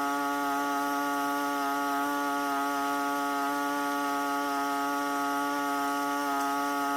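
A small engine running at a steady high speed, giving one constant high-pitched drone that does not change.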